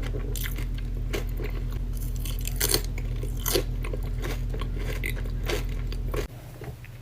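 Close-up chewing with repeated crisp crunches of Doritos chips eaten with a Chipotle bowl, over a steady low hum that cuts out near the end.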